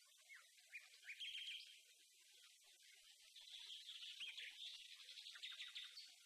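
Faint bird chirping: many short, high calls in quick succession.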